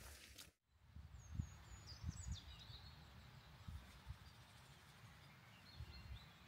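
Very quiet meadow ambience: a bird gives a few faint, quick high chirps about a second in and again near the end, over a low, uneven rumble.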